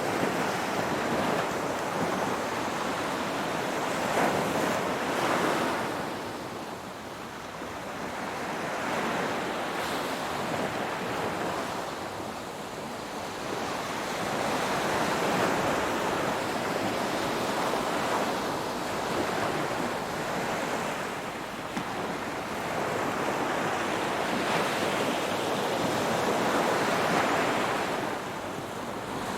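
Ocean surf: waves breaking and washing in, a continuous rushing noise that swells and falls every few seconds.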